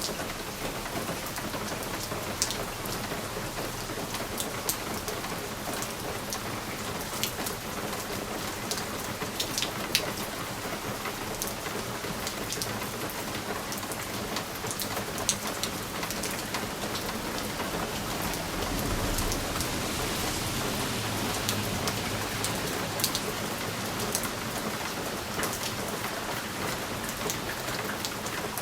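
Steady rain on a window, with scattered sharp drops tapping the glass. About two-thirds of the way through, a low rumble swells and fades.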